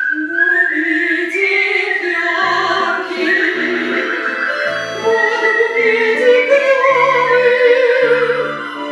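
A live romance performance: a singing voice with strong vibrato, joined by a high whistled melody line, over low accompaniment notes that change about once a second.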